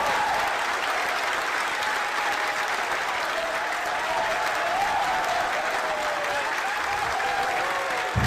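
A crowd applauding and cheering, with voices whooping over steady clapping, in celebration of the helicopter's successful mid-air catch of the Electron booster. A short low thump comes at the very end.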